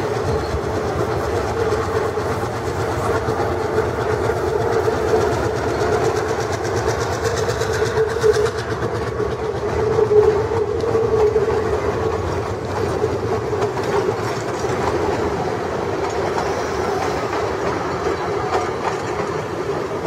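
Diesel-hauled train crossing a steel girder railway bridge: a steady drone with the wheels rolling over the rails, loudest about halfway through as the wagons pass close.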